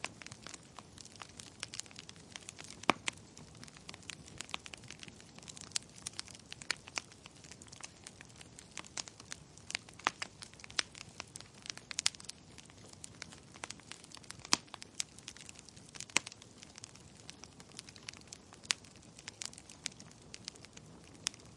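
Wood fire in a fireplace crackling: irregular sharp pops and snaps from the burning logs over a soft steady hiss of the flames.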